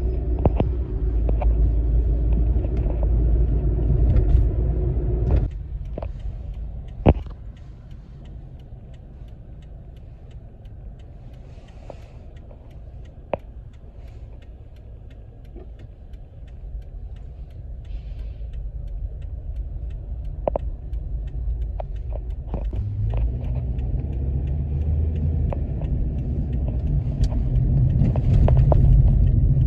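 Motor vehicle road rumble, low and steady. It falls away abruptly about five seconds in, with a few sharp clicks in the quieter stretch, then swells gradually again through the second half.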